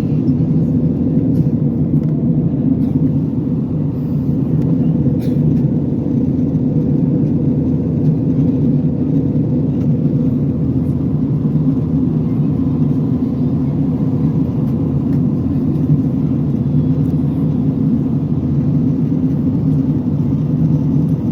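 Airliner cabin noise in flight: a steady low drone of the engines and airflow, even throughout.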